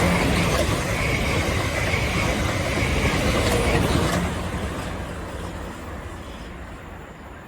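Passenger train running past on the rails: a steady rumble of wheels and running gear with a faint high whine on top, fading away from about four seconds in as the train moves off.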